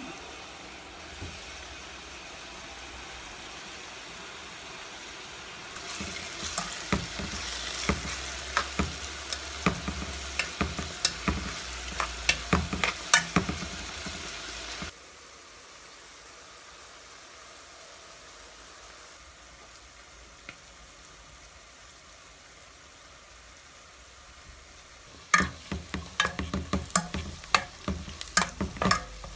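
Chicken mince frying in a pan with a steady sizzle, stirred with a spoon that knocks and scrapes against the pan in quick irregular clicks. The sizzle drops suddenly to a quieter hiss about halfway through. The stirring knocks return near the end.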